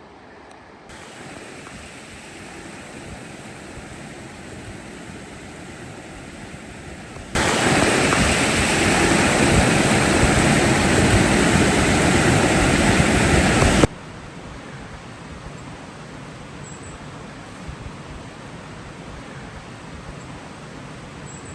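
Creek water flowing, a steady rushing noise. It jumps much louder about seven seconds in and drops back suddenly about fourteen seconds in.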